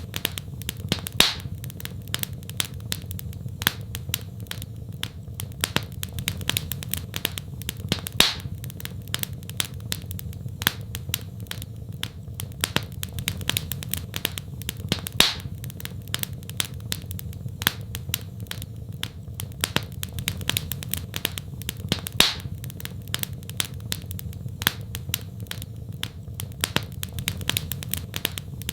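Wood fire crackling in a fireplace: a steady stream of sharp snaps and pops over a low, even rumble, with a louder pop every seven seconds or so.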